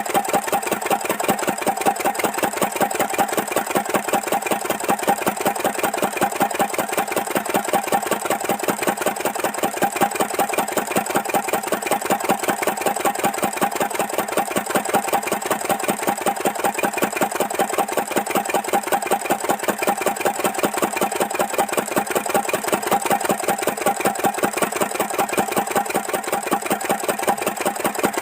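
Lister-type stationary diesel engine running steadily at slow speed, with an even beat of about five firing strokes a second.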